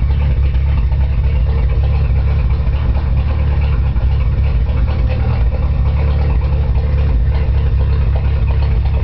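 Merkur XR4Ti's 2.3-litre turbocharged Ford four-cylinder engine idling steadily, very loud through a short exhaust with a small 3-inch bullet muffler ending mid-car. The owner believes the cam timing might be a little off.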